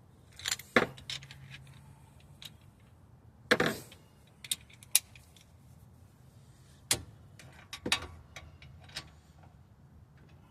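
Scattered metallic clinks and knocks of hand tools and suspension parts being handled, the loudest about three and a half seconds in.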